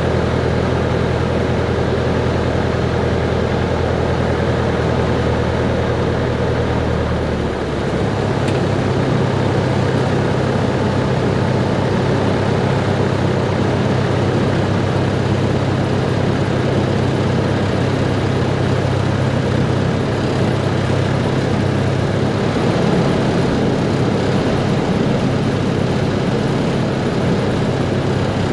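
Cessna 140's four-cylinder Continental engine and propeller droning steadily, with a rushing noise behind it. The engine note changes about seven seconds in, a change in power setting, then holds steady again.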